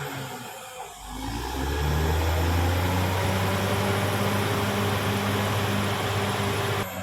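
Caterpillar D6R XL bulldozer's diesel engine easing off briefly, then revving up and holding a steady, loud pull under load. The sound drops abruptly near the end.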